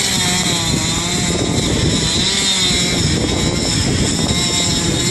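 Chainsaw running, its engine note wavering up and down under the throttle with a steady low hum underneath.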